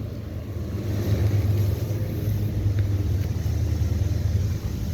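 Outdoor central air-conditioner condensing units running: a steady low hum from the compressor and condenser fan.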